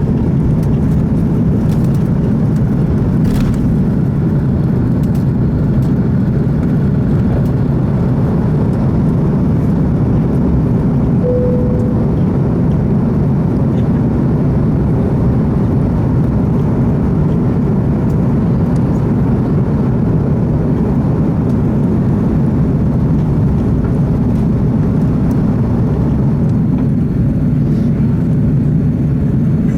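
Steady low roar of an Airbus A330's engines and rushing air heard inside the passenger cabin, with a brief tone about eleven seconds in.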